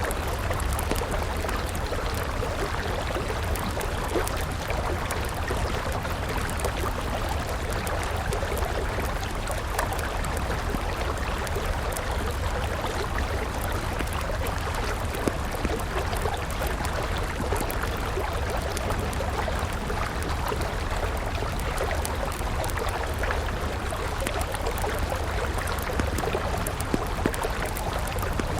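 River water flowing and trickling steadily, with scattered sharp crackles from a burning wood campfire.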